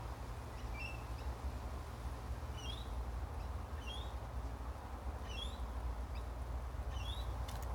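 A small bird chirping, a short high chirp that slides upward, repeated every second or so, over a steady low hum.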